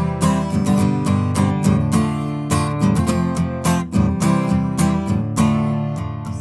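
Music: an instrumental passage of strummed acoustic guitar chords in a steady rhythm.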